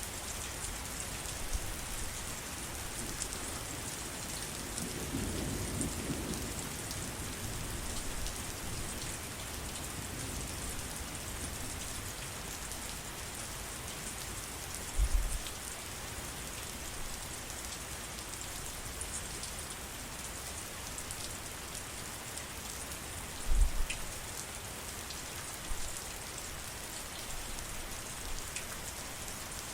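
Steady heavy rain hissing down, with a brief low rumble about five seconds in and a few short, deep thuds, the loudest about halfway through and again about two-thirds of the way in.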